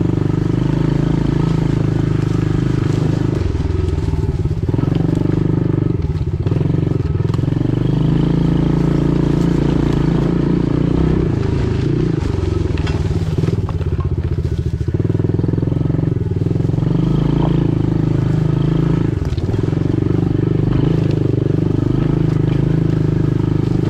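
Pit bike engine running steadily under riding load, its pitch shifting up and down now and then with the throttle.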